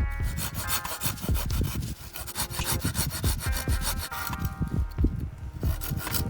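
Wood being worked by hand with a tool in quick, rhythmic scraping strokes, as when preparing firewood for a campfire.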